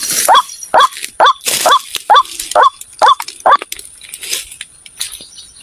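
White-breasted waterhen calling: a rapid series of harsh, hooked notes, about two a second, breaking off about three and a half seconds in.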